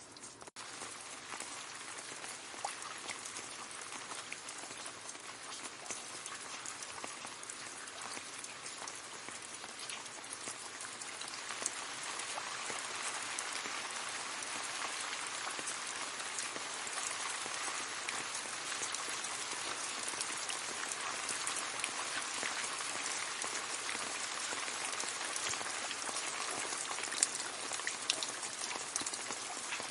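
Gentle rain falling on leaves: a steady patter with scattered sharper drops, growing a little louder in the first part before settling to an even level.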